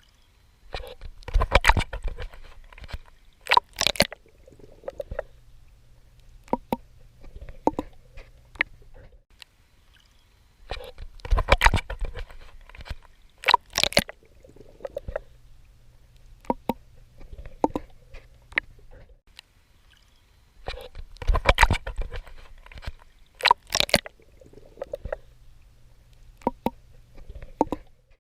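Water splashing and sloshing from a swimmer's strokes. Clusters of loud splashes come about every ten seconds, with smaller splashes and a low steady rumble between.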